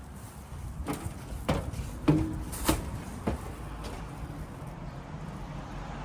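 A series of about six short knocks, roughly two a second, over a steady low background hum.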